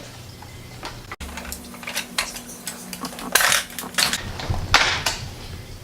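Plastic packaging rustling and crinkling as it is opened by hand, in several short bursts, the loudest about three and a half seconds in and another near the end.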